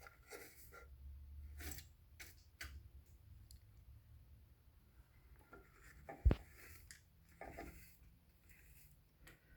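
A hand brush scratching and sweeping over the top of a garage door opener's housing, brushing off bits of broken drive belt in short uneven strokes with light clicks. One sharp click or knock about six seconds in is the loudest sound.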